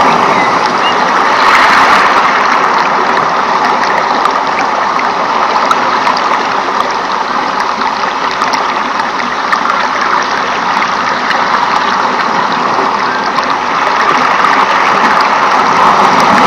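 Steady rushing water with many small drip-like ticks scattered throughout.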